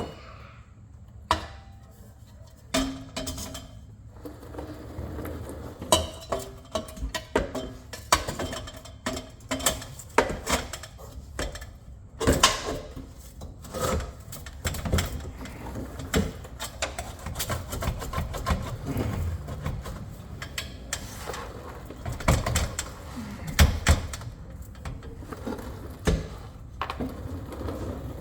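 Hand tools and metal parts clanking, clicking and knocking irregularly, the sound of work on a car's underside.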